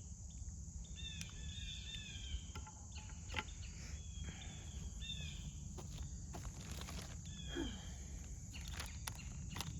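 Birds chirping and warbling in short repeated phrases over a steady high insect drone, with a few sharp clicks.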